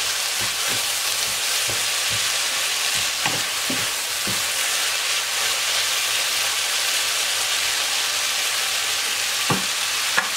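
Mushroom and vegetable filling sizzling in a wok over high heat, with the occasional tap and scrape of a wooden spatula stirring it.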